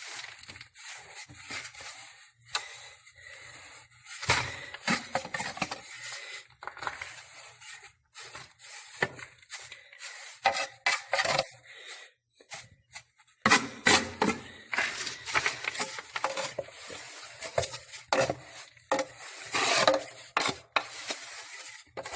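Irregular scraping and rubbing of salt being spread and scraped level, in uneven short strokes.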